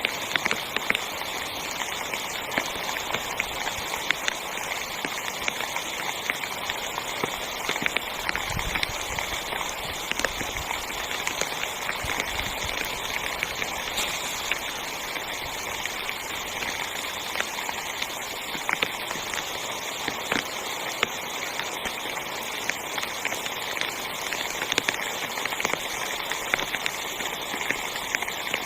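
Heavy rain falling on a tent: a steady hiss with many sharp drop hits scattered through it.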